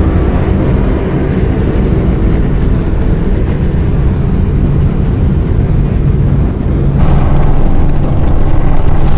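Loud, steady drone of a propeller plane's engines heard from inside the cabin in flight. The sound shifts about seven seconds in.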